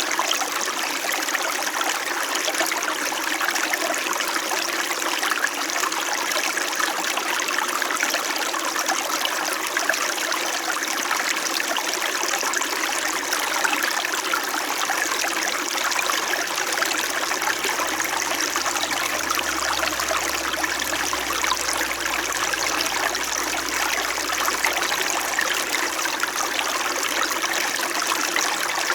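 Small winter mountain stream flowing with a steady, gentle babble of water. A faint low hum comes in under it about halfway through.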